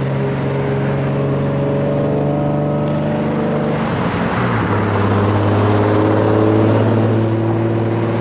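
Turbocharged Nissan Z engine droning steadily while driving. The engine note steps down in pitch about four seconds in, then holds steady.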